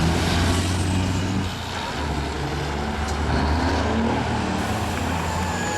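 Diesel semi-truck engines running hard under full throttle down a drag strip. The engine note drops about a second and a half in, then climbs again, as the trucks shift gears.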